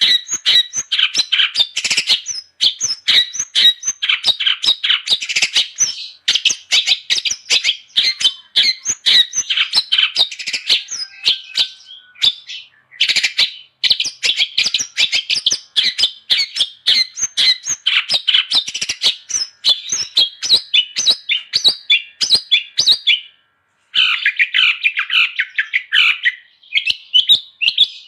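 Long-tailed shrike (cendet) singing a fast, continuous chattering song of rapid, varied notes, pausing briefly about 12 seconds in and again about 23 seconds in.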